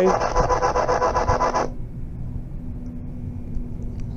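Battery radio scanning through FM stations, giving rapid, regularly pulsing static with a steady tone under it, then cutting out suddenly about a second and a half in, leaving a low hum. The owner thinks the batteries are drained.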